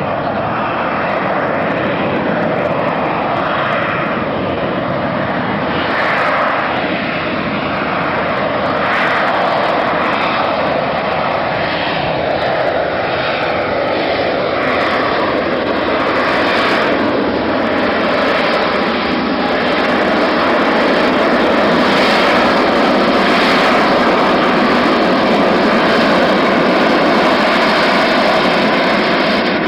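Fixed-wing aircraft engine noise, loud and steady throughout, with tones that slide downward in pitch several times in the middle.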